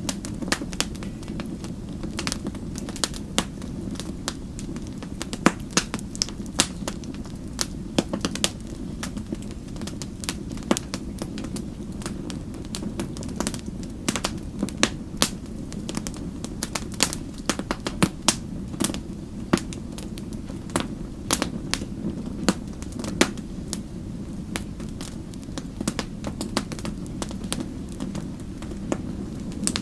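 Wood fire burning with a steady low rumble and frequent irregular crackles and sharp pops.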